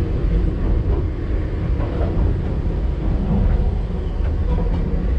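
Enoden electric train running with a steady low rumble.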